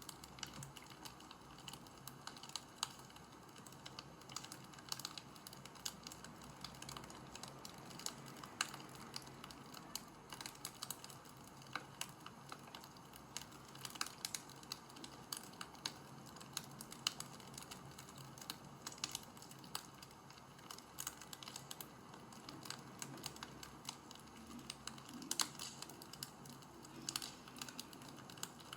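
Light, irregular clicking and crackling over a faint steady hiss, with a few sharper clicks standing out now and then.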